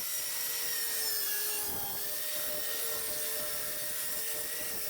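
Electric power saw running steadily as it cuts a wooden board to length.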